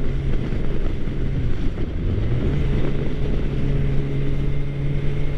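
Suzuki GSX-R600 inline-four engine running steadily at highway cruising speed, heard under wind noise on the rider's microphone. About two seconds in the engine note dips briefly, then climbs back and holds.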